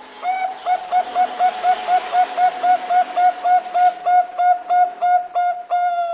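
Bangkok-type zebra dove (perkutut) cooing: a quick run of about twenty short, even notes, about four a second, ending in one longer drawn-out note.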